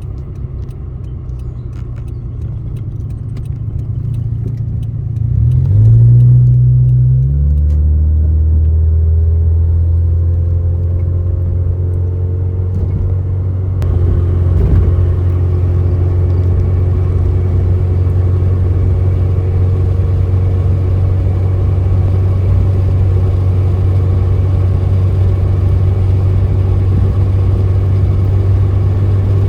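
Car travelling on a highway: a loud, steady low rumble of engine and road noise, its pitch shifting briefly about five to seven seconds in.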